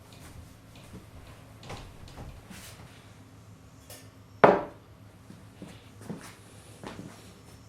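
Handling noises: a few light knocks and clicks, with one much louder sharp knock about halfway through.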